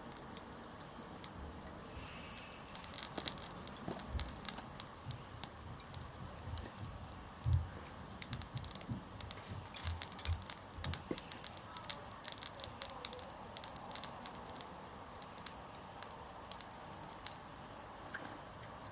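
Small wood fire crackling, with irregular sharp snaps and a few dull knocks.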